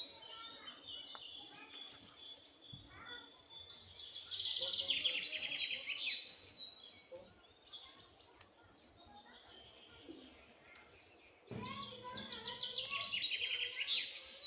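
Several birds calling outdoors: scattered high chirps throughout, with two loud bouts of fast rattling chatter, the first about four seconds in and the second starting about eleven and a half seconds in.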